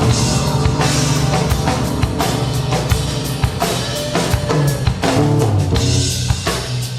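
Live jazz-rock fusion band music with a busy drum kit, many rapid snare and cymbal hits over a steady bass line.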